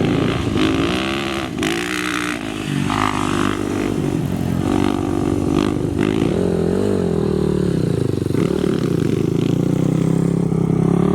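Off-road racing motorcycle engine running loud, its pitch rising and falling again and again as the throttle is opened and closed.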